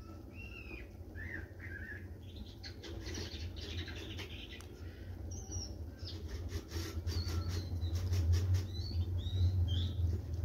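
Short, high bird chirps, many in a row, over a low steady hum that grows louder toward the end; a quick run of clicks comes in the second half.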